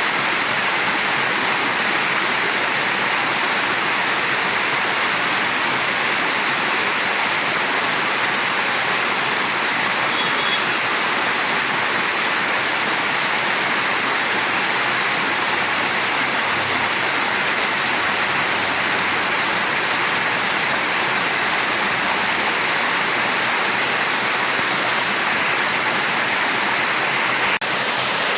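Mountain stream rushing steadily over rocks, an even hiss of flowing water that holds its level throughout, broken by one brief click near the end.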